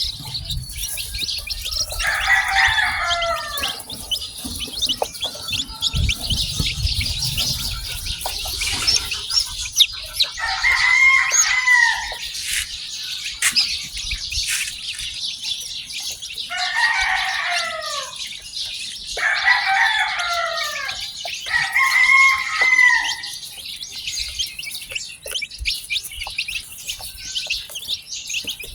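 Many newly hatched chicks peeping continuously in a dense high chorus. Five times, a lower, longer call from a grown chicken rises over it.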